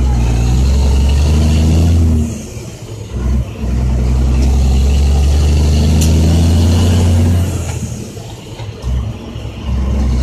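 Dump truck's Caterpillar C10 diesel running loud with a deep drone under load, dropping off briefly about two seconds in and again near the end as gears are shifted, then coming back on.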